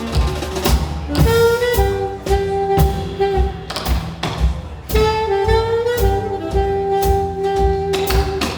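Live small-band jazz: saxophone playing two long held phrases, one entering about a second in and another about halfway through, over double bass and evenly spaced sharp percussive hits.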